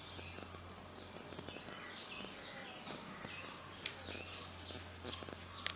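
Small birds chirping over and over, with a steady low hum underneath and a few sharp clicks, the loudest near the end.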